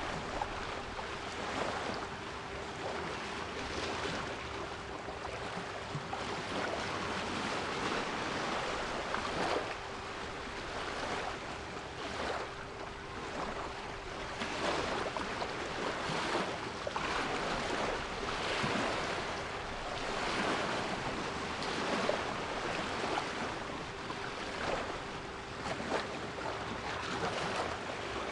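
Sea waves breaking and washing ashore in repeated surges, with a steady 396 Hz pure tone held underneath, quieter than the surf.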